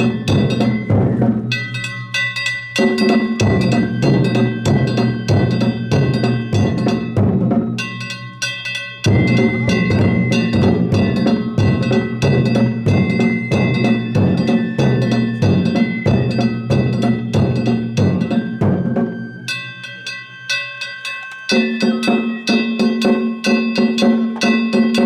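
Danjiri festival percussion: taiko drums beaten in a fast, steady rhythm with small kane gongs clanging over them. The drums thin out briefly about two seconds in, about eight seconds in, and again around twenty seconds.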